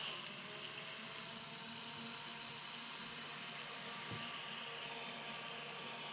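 Small computer power-supply cooling fan, its bearings freshly cleaned and oiled, running on a 12 V supply with a steady, fairly quiet whir.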